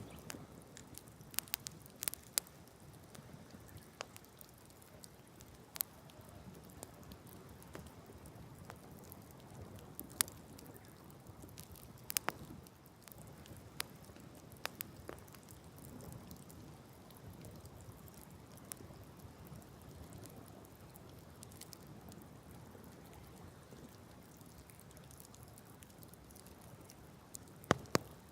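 Wood bonfire crackling: irregular sharp pops and snaps over a low, steady rush of burning.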